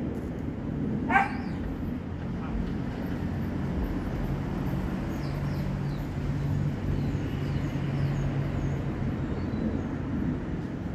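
A dog gives one short, sharp bark about a second in, over a steady low hum.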